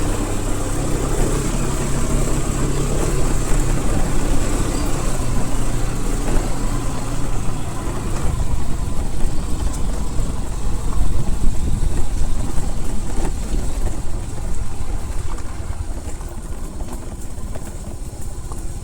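A motor vehicle's engine running steadily with a heavy low rumble, its hum clearest in the first few seconds.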